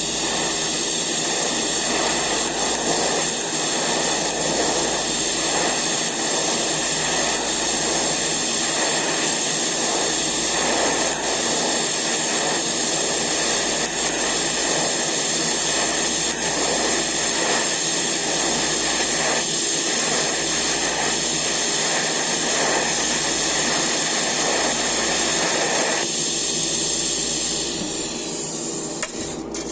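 Eastwood TIG 200 welder's arc burning steadily while a bead is laid: a constant hiss with a high whine. The arc thins out and cuts off near the end.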